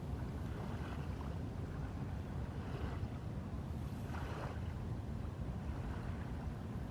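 A steady low rumble with soft swells of rushing noise coming and going, like wind and water.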